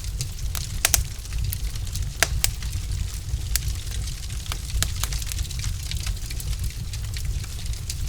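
Log fire crackling in a fireplace: irregular sharp pops and snaps over a steady low rumble of the burning.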